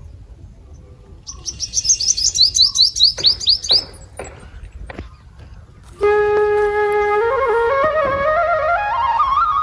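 A small bird singing a quick run of high, downward-sliding notes, about five a second, for a few seconds. About six seconds in, background music comes in: a held, flute-like tone that climbs in steps.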